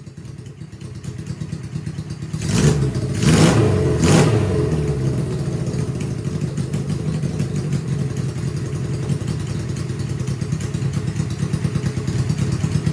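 1978 Suzuki GS750's air-cooled inline-four running through a home-made custom exhaust, blipped three times in quick succession a couple of seconds in, then idling. It runs rough with a throaty note, which the owner puts down to worn spark plugs and carburetors that need tuning.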